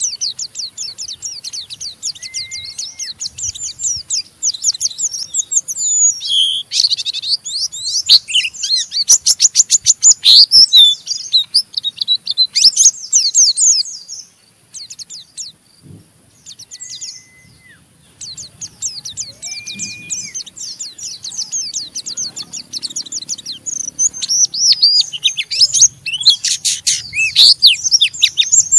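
Pleci (white-eye) singing its 'ngeriwik' song: long runs of very fast, high, scratchy twittering trills, with a pause of a few seconds around the middle and a few short, lower whistled notes.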